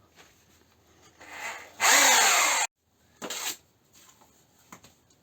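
Electric drill with a mixing paddle stirring tile adhesive: it winds up with a rising whine, runs loud for under a second and stops abruptly, then gives one short second burst.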